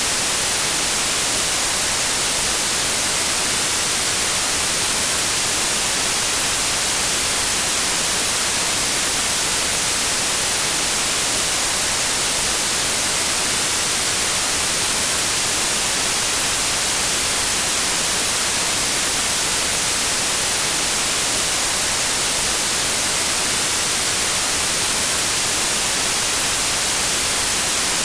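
Steady white noise: an even, unchanging hiss, brightest in the high end, with no breaks or events.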